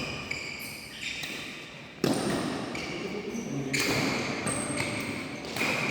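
Badminton being played on an indoor court: a sharp racket hit about two seconds in and another near the end, with short high squeaks of shoes on the court floor, echoing in the hall.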